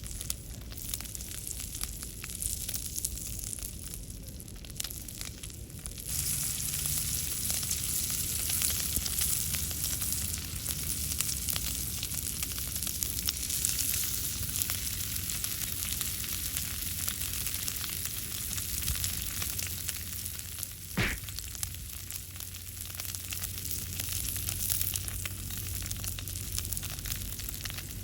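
Steak sizzling as it cooks over a wood fire, a dense crackling hiss that grows louder about six seconds in. A single sharp knock comes about three-quarters of the way through.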